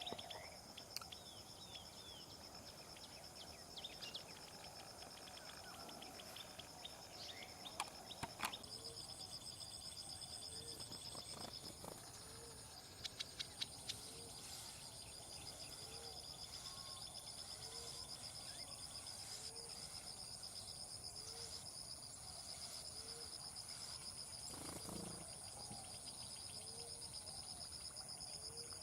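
Insects trilling steadily in a high, fast pulse, with a second, higher trill joining about nine seconds in. A few short bird chirps come in the first several seconds, and a faint low call repeats about once a second through the second half.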